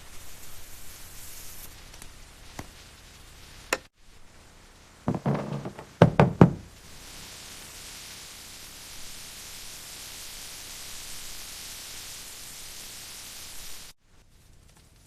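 Steady rain hiss, broken by two quick runs of loud knocks about five and six seconds in, with a few sharp clicks shortly before.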